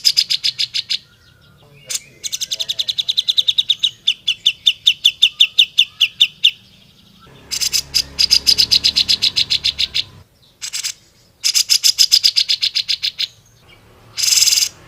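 Grey-cheeked bulbul (cucak jenggot) calling in rapid, sharp chattering trills of about ten notes a second, in bursts of one to four seconds with short pauses between.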